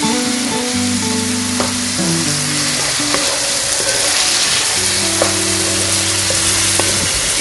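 Diced onion, garlic, olives and capers sizzling in hot oil in a pan, stirred with a wooden slotted spoon. Background music with held low notes plays over it.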